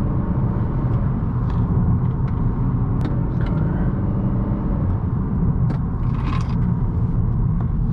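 A 2018 Honda Accord 1.5T's turbocharged four-cylinder engine and road noise, a steady low rumble as the car is driven hard through curves near the limit of grip. A few faint clicks and a brief hiss come about six seconds in.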